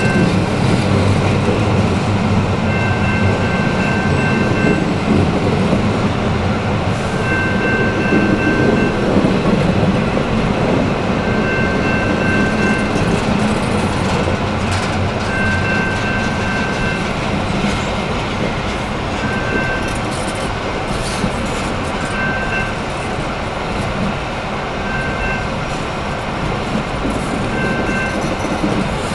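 Double-stack intermodal container train's well cars rolling past: a steady, loud rumble of steel wheels on rail. A high tone sounds on and off every few seconds over the rumble.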